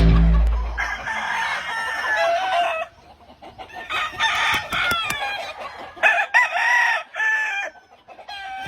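Gamefowl roosters crowing: three separate crows in turn, each a couple of seconds long.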